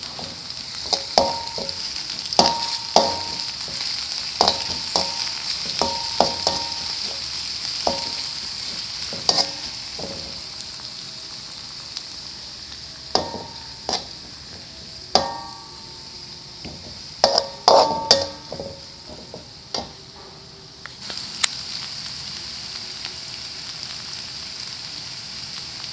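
Food sizzling steadily in hot oil in a pan during stir-frying, with a spatula knocking and clinking against the pan in irregular bursts of sharp, briefly ringing strikes. The sizzle dips for a moment about twenty seconds in, then comes back louder.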